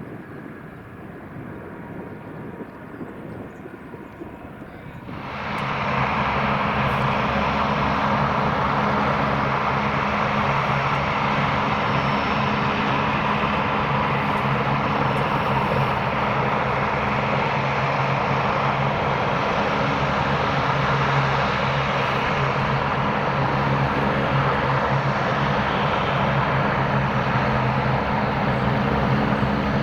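Airbus A350-900's Rolls-Royce Trent XWB turbofans at takeoff power: a loud, steady jet roar with a low hum, coming in abruptly about five seconds in after quieter wind noise.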